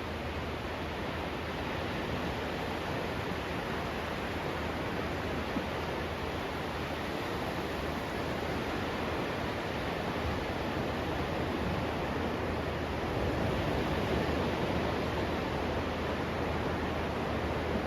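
Steady rushing noise of surf along the beach, even and unbroken.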